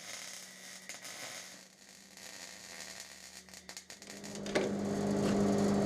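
Welding arc crackling and hissing on a suspension bracket, irregular and faint. About four seconds in, a louder steady machine hum starts.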